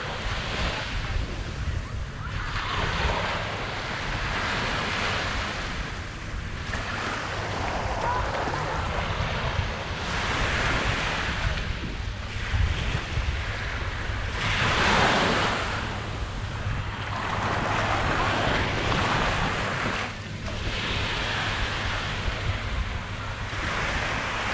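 Small waves breaking and washing up a sand beach, the surf swelling and fading every two to three seconds, with one bigger wave about halfway through. Wind rumbles steadily on the microphone underneath.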